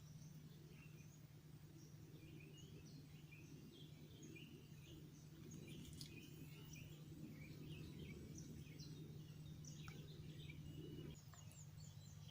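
Faint small birds chirping repeatedly over a steady low hum and rumble; the rumble drops away about eleven seconds in.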